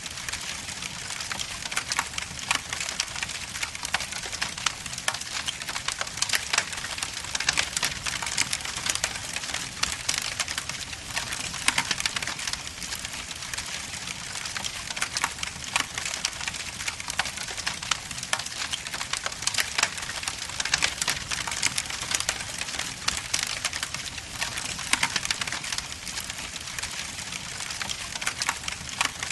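Wood logs burning in a fireplace, with a steady hiss and dense, irregular crackling and popping.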